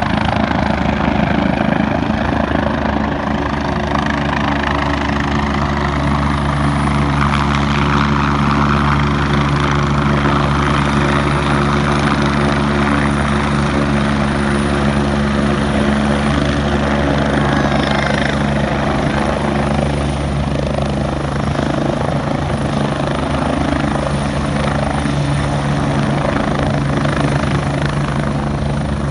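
Air-ambulance helicopter running loud and steady: a low, droning rotor hum with several steady tones over a rushing roar.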